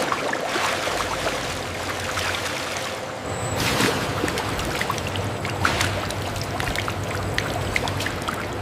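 Water running and trickling, with scattered small drips and splashes; it swells again about three and a half seconds in.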